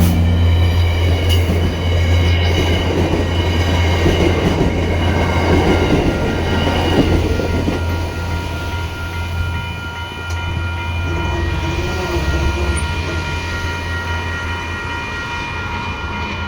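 An MBTA F40PH-3C diesel locomotive and its train pass, the engine holding a steady low drone over the rumble and clatter of the cars on the rails. The noise is heaviest over the first several seconds, then slowly fades as the train moves away, with steady high-pitched tones throughout.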